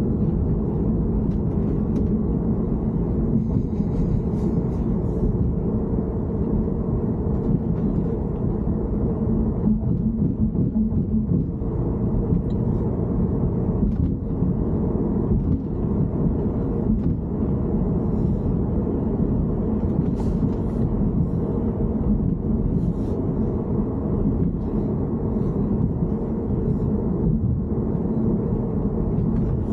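Steady low rumble from a BMW E90 3 Series in motion, with faint scattered light clicks and ticks over it.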